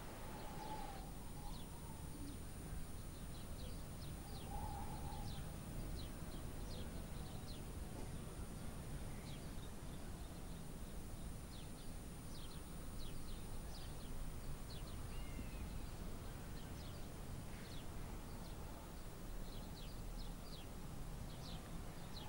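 Small birds chirping outdoors: many short, high chirps scattered throughout, with a few lower calls, over a steady low rumble.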